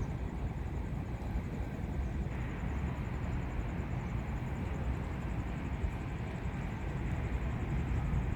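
Steady outdoor rumble, heaviest in the low end, with a faint thin high whine over it.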